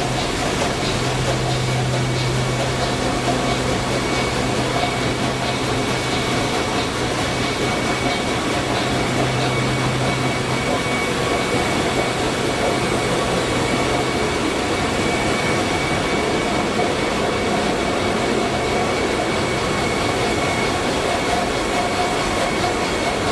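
Engine-room noise of a Sulzer 12RTA96C twelve-cylinder two-stroke low-speed marine diesel main engine running: a loud, steady, dense machinery din with a few constant hums and whines. A low hum among them drops away about two-thirds of the way through.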